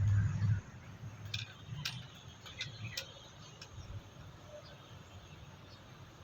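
A low rumble in the first half second, then a handful of light, sharp clicks spread over the next few seconds.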